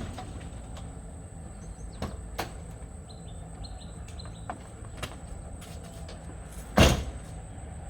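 Low background rumble with a few short, high bird chirps a few seconds in, scattered light clicks, and one loud thump about seven seconds in.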